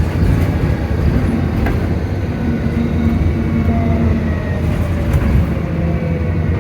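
Volvo B9TL bus's diesel engine running: a steady low rumble, with faint whines that slowly fall in pitch from about halfway through.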